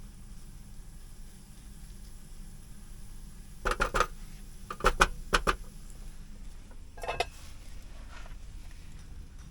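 Kitchenware being handled: a quick cluster of clinks and knocks about four seconds in, four more a second later, and a last couple about seven seconds in, over a steady low hum.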